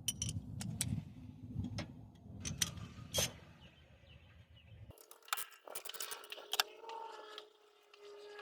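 Irregular metallic clinks and taps of hand tools, a socket and extension, against the engine's alternator bracket and bolts. A low rumble in the first half cuts off suddenly about five seconds in, leaving a faint wavering tone under further clinks.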